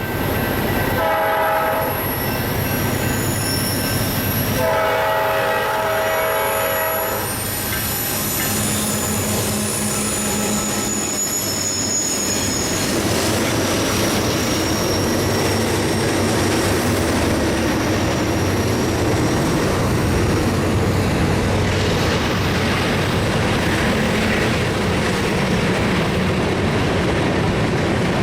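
Diesel locomotive horn sounding a short blast, then a longer one a few seconds later, as a freight train rolls past with steady rail noise. High, thin wheel squeal follows for several seconds.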